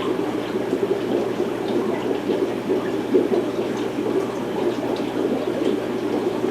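Aquarium filtration running: water bubbling and trickling steadily.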